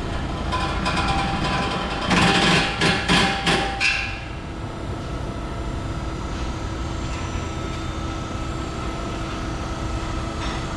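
About five hard knocks in quick succession, starting about two seconds in, over a steady background hum.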